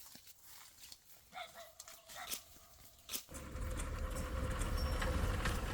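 A dog whines briefly. About three seconds in, a motor starts abruptly and runs with a steady hum.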